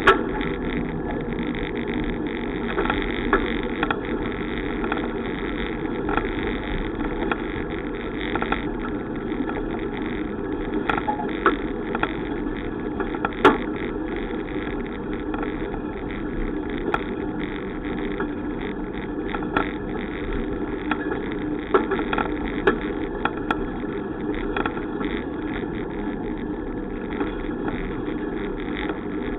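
Steady rushing noise of a bicycle in motion, broken by occasional sharp clicks or knocks; the loudest comes about thirteen seconds in.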